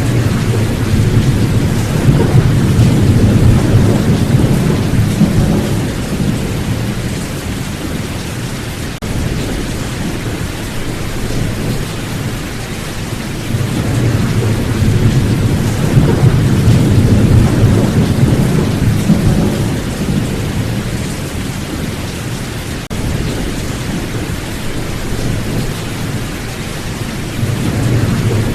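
Steady rain with rolling thunder: long low rumbles swell and fade, one in the first few seconds, another about halfway through, and a third building near the end.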